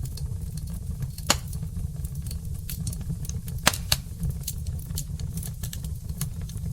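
Wood fire in a fireplace crackling over a low steady rumble, with scattered small snaps and three louder pops: one about a second in and two close together near four seconds.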